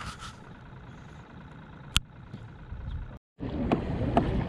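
Wind and water noise around a fishing kayak, with one sharp click about two seconds in. The sound drops out completely for a moment a little after three seconds, then comes back louder with small knocks.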